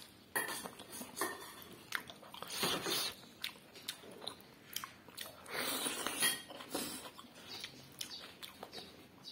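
A person chewing and biting food close to the microphone, with irregular sharp clicks and short wet bursts. The sounds come in two louder, busier spells, a little before the middle and again about two-thirds through.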